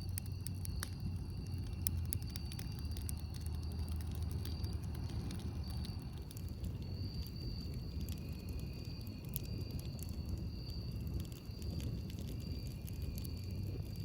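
Campfire crackling, with frequent sharp pops and snaps scattered over a steady low rumble.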